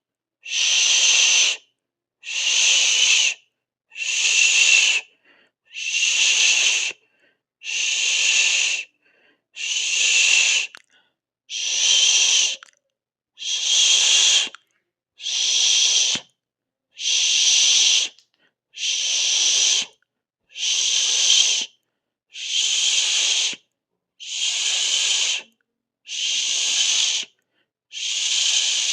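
A drawn-out hiss, a 'shhh' or 'sss' of breath, repeated at an even pace: about one hiss every second and a half to two seconds, each lasting about a second, with silence between them.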